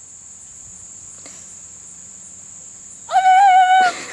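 Crickets trilling steadily in a field. About three seconds in, a person sings one loud, held high note for under a second.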